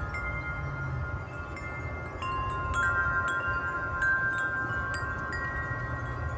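Wind chimes struck by gusts, several notes ringing and overlapping, with fresh, louder strikes about two and four seconds in. Wind rumbles on the microphone underneath.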